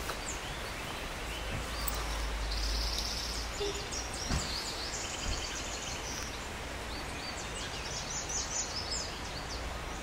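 Outdoor background of small birds chirping and twittering in short high bursts over a steady low rumble, with quick trilled runs about four seconds in and again near the end.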